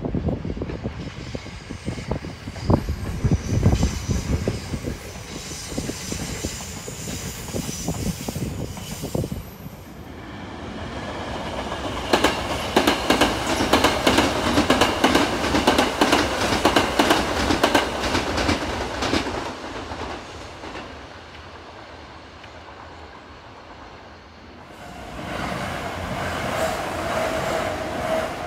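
Sanyo Electric Railway electric trains passing. Their wheels rumble, then clatter rapidly over the rail joints, loudest in the middle. Near the end a level-crossing bell rings steadily as another train runs by.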